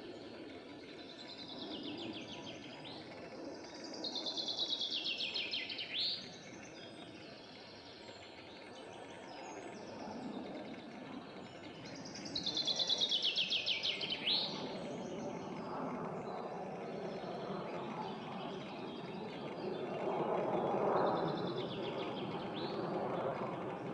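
A songbird singing a loud trilled phrase that falls in pitch and ends with a sharp flourish, twice about eight seconds apart, with fainter song before and after. A steady low rushing noise runs underneath and swells near the end.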